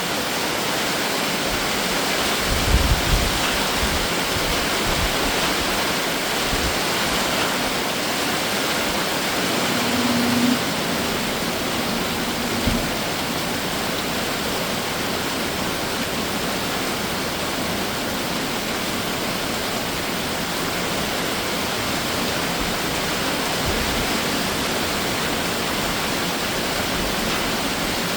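Heavy summer rain shower falling steadily, an even hiss without pause, with a few low thumps about three seconds in and a brief low hum around ten seconds.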